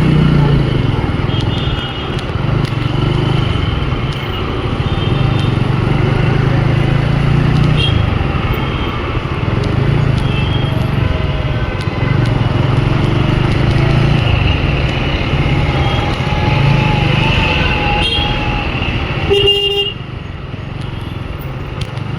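Motorcycle engine running under way in city traffic, its note swelling and easing with the throttle, with other vehicles' horns tooting briefly here and there. One louder horn sounds just before twenty seconds in, and the engine is quieter after it.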